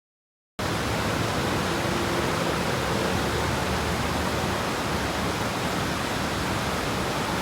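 Steady rush of fast-flowing river water. It cuts in abruptly about half a second in, after a moment of silence.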